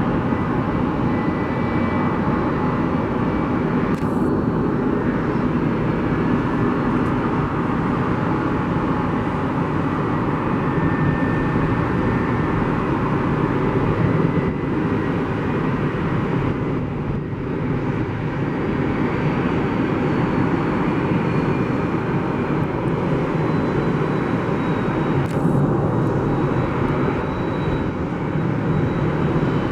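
Jet airliner engines, a loud steady rush of noise with a faint high whine that slowly falls in pitch.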